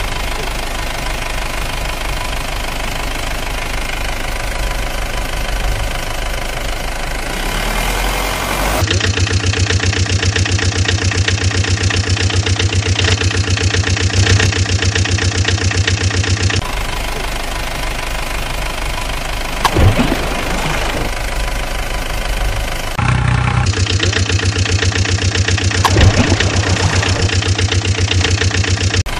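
Dubbed-in engine sound effect of a small truck idling with a knocking beat. It switches abruptly between recordings several times, with two brief louder bursts about two-thirds of the way in and again near the end.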